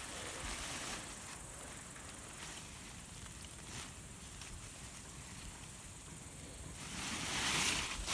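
Outdoor wind noise buffeting the microphone, a low rumble with a steady hiss that swells near the end.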